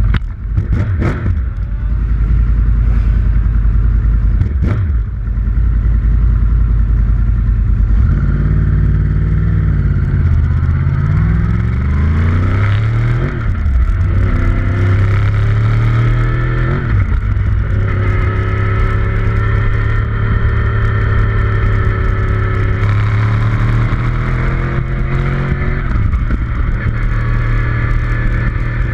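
Vehicle engine being driven hard, its pitch climbing under acceleration and dropping at shifts or braking several times, over a constant heavy wind rumble.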